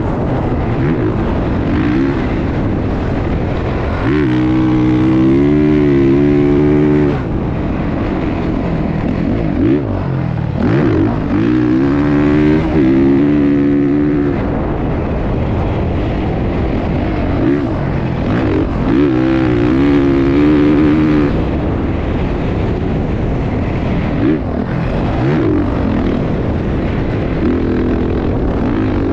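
Motocross dirt bike engines revving, the engine note rising and falling again and again as the throttle is worked, with louder stretches as bikes come close.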